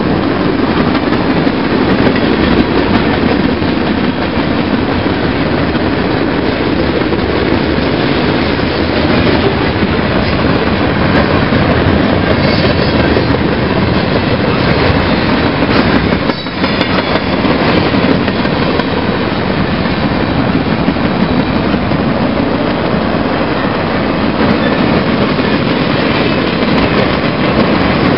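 CSX freight train's boxcars and tank cars rolling past, a steady loud noise of steel wheels running on the rails, with a brief lull about halfway through.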